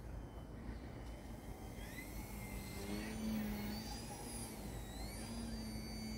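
Electric motor and propeller of an E-flite Eratix flat-foam RC plane whining in flight, its pitch rising and falling with the throttle from about two seconds in, over a steady low rumble.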